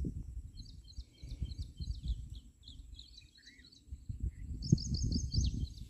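Small birds chirping in quick runs of short high notes, with a few lower calls in the middle. Under them runs a gusty low rumble on the microphone, louder at the start and again near the end.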